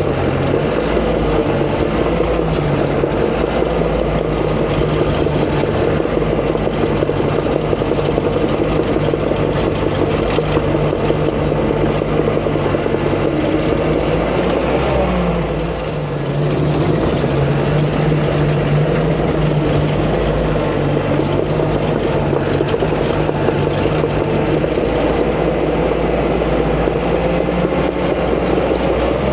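Caterpillar D5 bulldozer's diesel engine running steadily while it works. About halfway through, the engine note drops briefly and then picks back up.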